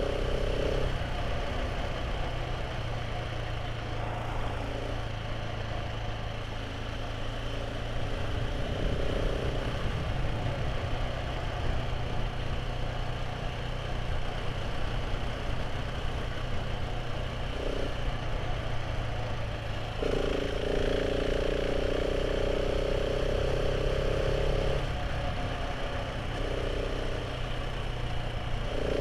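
Motorcycle engine running steadily while riding, with road and wind noise. A brighter, higher engine tone comes in several times, longest for about five seconds some twenty seconds in.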